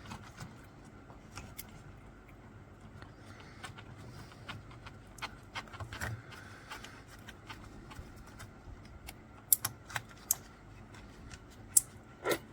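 Small metal clicks and taps as a dental matrix band retainer is tightened around the tooth, with a few sharper clicks near the end.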